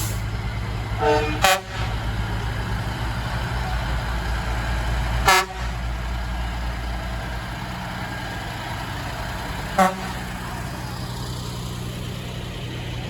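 Short horn blasts from Kenworth trucks: a quick pair about a second in, another just after five seconds and a short one near ten seconds, over the steady low running of the diesel truck engines.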